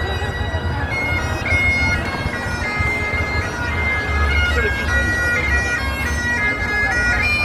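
Great Highland bagpipes playing: a steady drone under a stepping chanter melody, over a low rumble.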